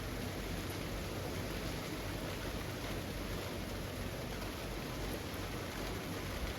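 Steady rain falling through leafy trees: an even hiss with faint scattered drop ticks.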